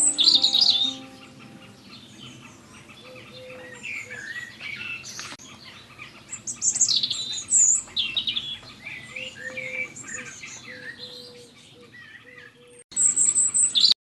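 Small birds chirping and singing, several short overlapping calls and trills. There is a cluster of high chirps at the start, a short break near the end, and then a fresh burst of chirping.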